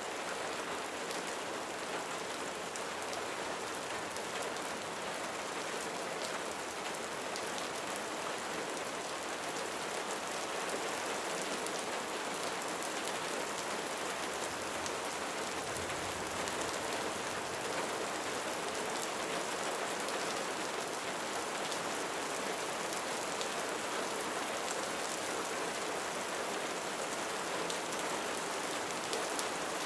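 Steady rain falling on a roof, a constant hiss with individual drops pattering.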